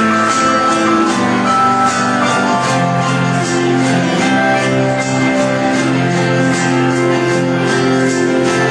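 Live band music: an instrumental passage of guitars over a steady beat, without vocals.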